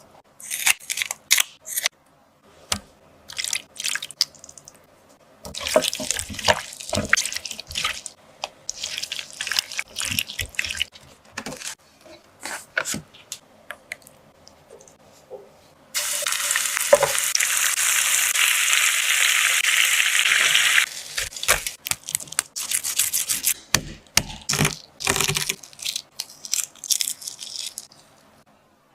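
Kitchen prep sounds: scattered clicks, taps and knocks of utensils and containers being handled, with a steady rush of running tap water for about five seconds midway.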